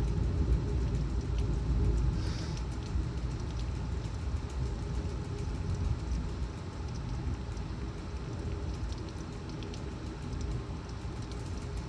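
Severe thunderstorm: a steady low roar of wind and torrential rain, loudest in the first two seconds and then easing a little, with faint scattered ticks of raindrops.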